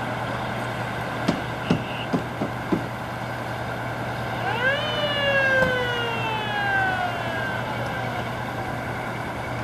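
Fire engine's siren sweeps quickly up in pitch about four and a half seconds in, then slowly falls away, over the steady running of the truck's engine. A few short, sharp knocks come a little over a second in.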